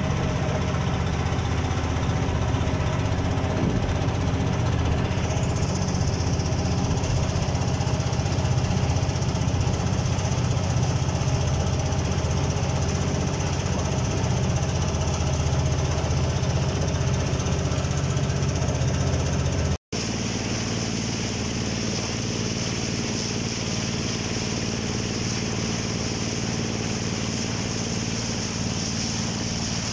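Small boat engine running steadily at a constant speed. It cuts out for an instant about two-thirds of the way through, then carries on a little quieter.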